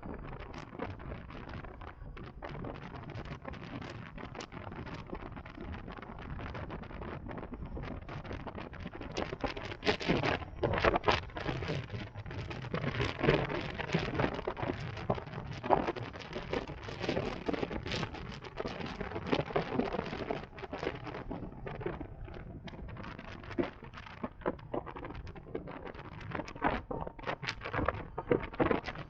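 Irregular crackling and rustling noise on the microphone of a camera riding on an electric motorcycle. It gets denser and louder about ten seconds in, eases off about twenty seconds in, and picks up again near the end.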